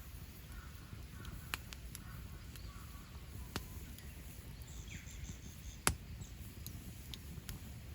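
Wood campfire crackling, with a few sharp pops, the loudest about six seconds in. Faint bird chirps in the background.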